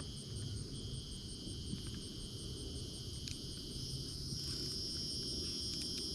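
Insects chorusing at dusk: steady high-pitched trilling in several pitches, with one higher insect pulsing evenly about three times a second.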